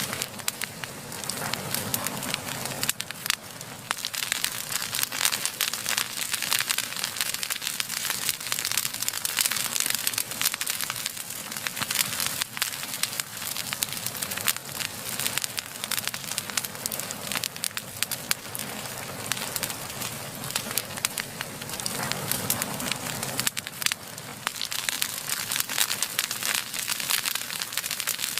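Wood fire burning steadily, with dense, irregular crackles and pops over a continuous hiss of flame.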